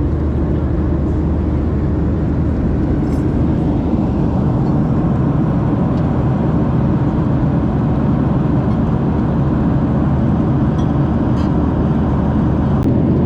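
Steady cabin noise of a Boeing 737-700 in cruise flight: the even, low drone of its engines and the airflow over the fuselage, with a few faint clicks near the end.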